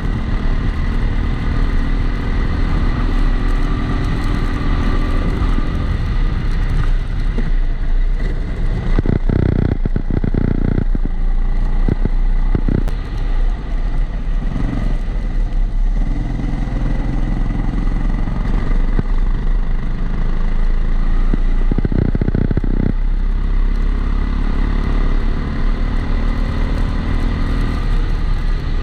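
Kart engine heard onboard through a waterproof camera housing, its note dropping off twice as the kart slows and picking up again under acceleration, with a few knocks around ten seconds in. A steady high whine from the housing runs underneath.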